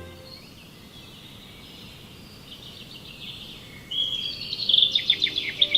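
Birds singing, faint at first, then a louder run of quick chirps and falling whistled notes from about four seconds in.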